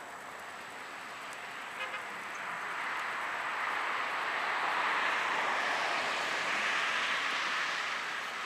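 A vehicle passing by, its rushing road noise swelling over a few seconds and then fading.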